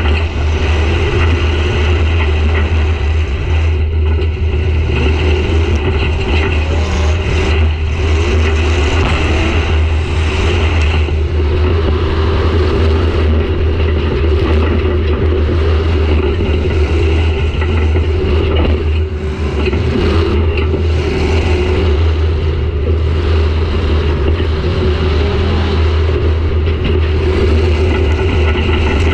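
Demolition derby car's engine running loudly without a break, heard from inside the stripped cabin, its pitch wavering with the throttle. The level dips briefly about nineteen seconds in.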